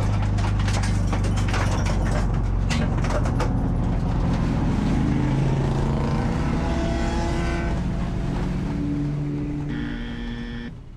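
Race car engine running, its pitch shifting up and down with the throttle, fading away in the last second.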